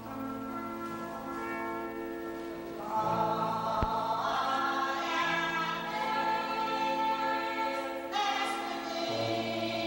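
Choir singing a Catholic hymn in long held chords, soft at first and swelling louder about three seconds in as lower voices join.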